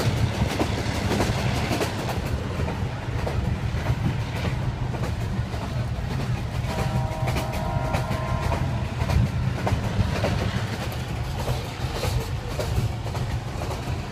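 Passenger train carriage running along the line: a steady low rumble with the clatter and knocks of the wheels over the track. A short steady tone sounds for about two seconds midway.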